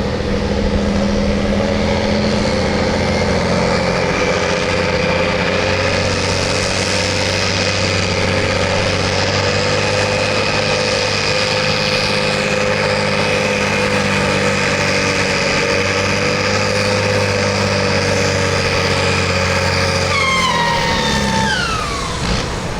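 Farm tractor's engine running hard under load while pulling the sled, a steady heavy drone with a high whine above it. About twenty seconds in the engine is throttled back and the whine glides down and fades.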